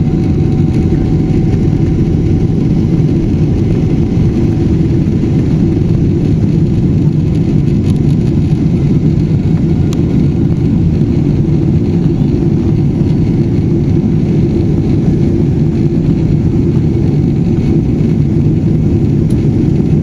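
Steady low rumble of a Boeing 777-300ER airliner's jet noise, holding even without rising or falling.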